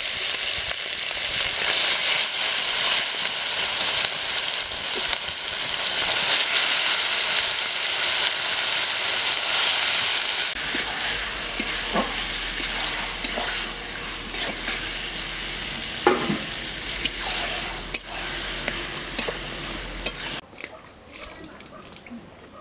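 Marinated chicken pieces sizzling loudly in hot oil in a metal kadai, the sizzle easing after about ten seconds. A metal spatula then stirs and scrapes the pan, with scattered clicks and knocks against the metal. The sound drops away abruptly near the end.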